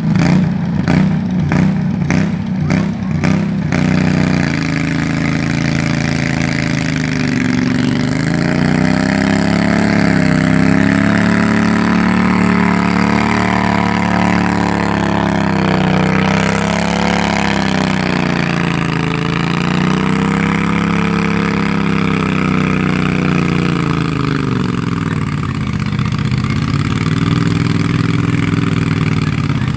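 Pulling tractor's engine running hard under load, loud throughout. For the first four seconds it pulses at about two to three beats a second, then settles into a steady drone whose pitch rises and falls several times.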